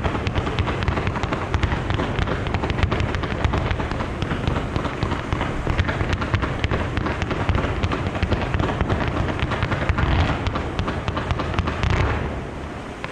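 Aerial fireworks going off in a dense barrage: rapid overlapping booms and crackling that die down about twelve seconds in.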